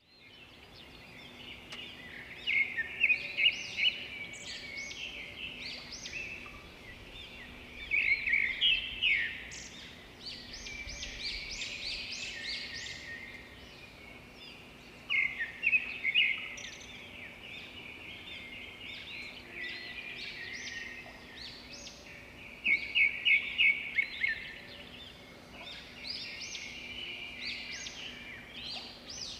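Several songbirds singing and chirping, with loud bursts of rapid repeated notes every few seconds among softer calls. A faint steady low hum runs underneath.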